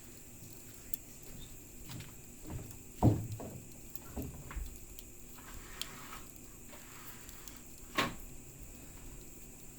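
Wood campfire crackling with sparse, irregular pops: a louder thud about three seconds in, and a sharp pop about eight seconds in.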